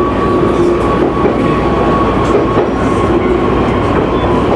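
JR Nikkō Line local electric train running along the line: steady rumble of wheels on rail with a steady whine from the drive running under it.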